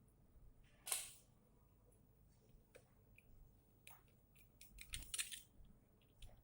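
Scattered sharp clicks and taps of small tools and parts being handled on a workbench: one loud click about a second in, then a quick cluster of clicks near the end.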